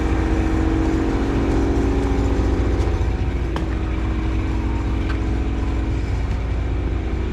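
An engine running steadily at idle: a constant low hum with no change in speed.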